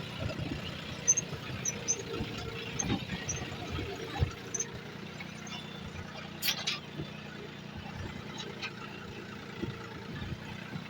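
Tractor engine running steadily at a low idle, with scattered knocks and clicks and one sharp click about six and a half seconds in.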